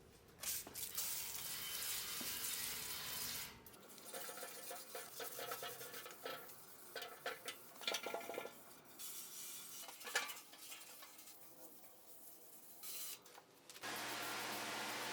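A wood fire crackling and popping in a welded steel fire pit, with many irregular sharp pops over a faint hiss. The fire is burning in the pit's first firing.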